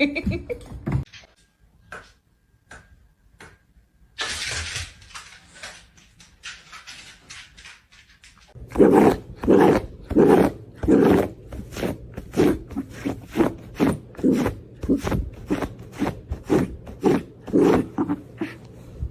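A dog making a long run of short growly barks or grunts, about two a second, starting about halfway through, after a few faint clicks and a brief hiss.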